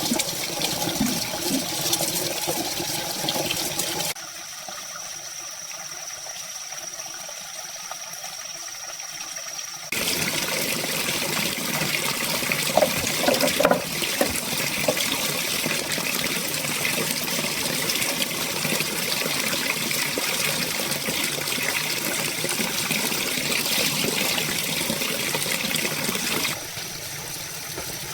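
Running water, a steady rush that changes abruptly in level about four seconds in, again about ten seconds in, and near the end.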